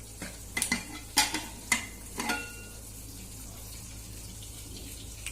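Pressure cooker lid being opened: about five sharp metal clanks and knocks in the first two and a half seconds, one with a brief squeak, then only a steady low hum.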